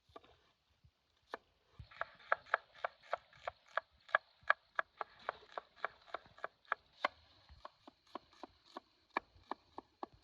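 Knife chopping on a wooden board: a single stroke, then about two seconds in a fast steady run of about three to four chops a second, slowing to irregular strokes near the end.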